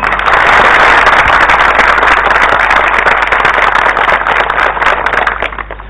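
Applause from a crowd clapping, loud and dense, dying away over the last second or so.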